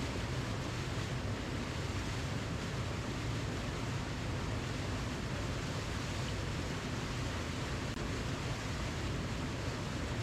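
Waterfall: a steady rush of falling water, an even, unchanging hiss.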